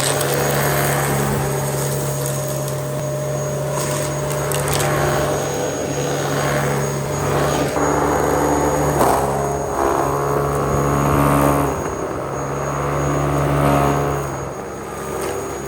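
Dyson DC07 Allergy upright vacuum cleaner running, a steady motor hum whose upper tones shift as it works. A few brief clicks and rattles come through, mostly in the middle.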